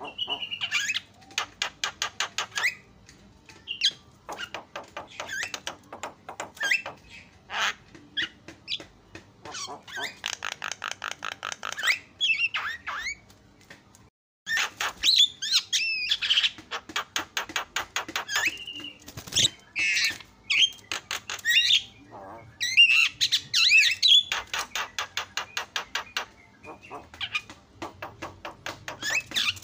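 Javan myna singing a vigorous song: long runs of rapid rattling chatter mixed with harsh squawks and short whistled notes, in bursts with short pauses between, with a brief break a little before halfway.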